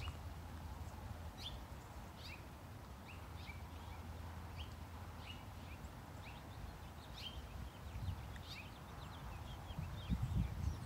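Several wild birds chirping and calling, a quick scatter of short, high chirps several times a second, over a low outdoor rumble. A few low thumps of footsteps come in near the end.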